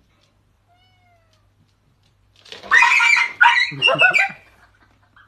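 A cat meowing: one faint short meow about a second in, then loud, drawn-out meows from about halfway through.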